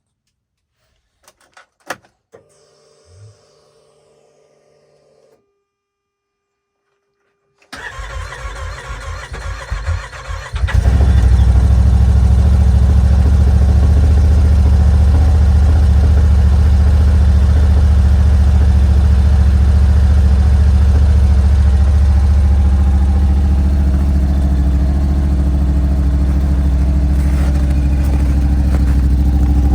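2021 Yamaha Wolverine RMAX side-by-side's engine cold-started. After a few faint clicks and a brief low hum, the starter cranks for about three seconds from about eight seconds in. The engine then catches and settles into a loud, steady cold idle.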